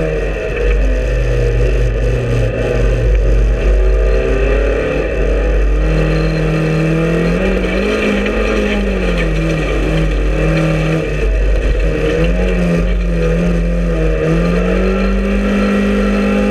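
Race car engine heard from inside the stripped cabin, revving up and dropping back again and again as it is driven hard through the gears. Under it runs steady road and tyre noise.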